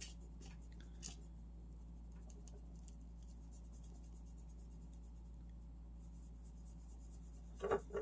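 Faint scratching and light clicks from small parts and tools being handled on a workbench, over a steady low electrical hum, with a couple of louder knocks near the end.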